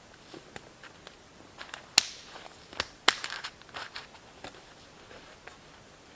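A run of irregular sharp clicks and knocks, the two loudest about a second apart near the middle.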